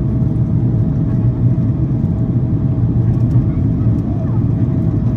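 Steady cabin noise of a Boeing 767-400ER airliner on its initial approach: a deep, even rumble of airflow and engines, with a thin steady hum above it.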